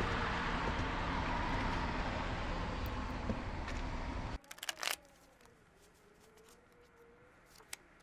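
Steady road and engine noise inside a moving car, cutting off sharply about four seconds in. It gives way to quiet room tone with a few short clicks.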